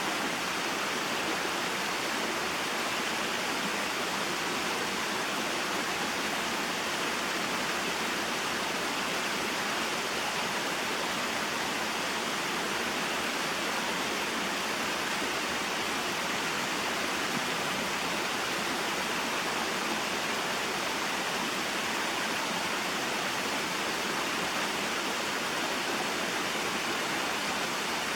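Small waterfall and mountain stream: water falling and flowing over rocks in a steady, even rush.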